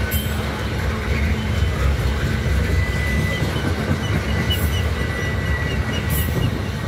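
Loaded crude-oil tank cars of a freight unit train rolling past, with a steady rumble and clatter of steel wheels on rail.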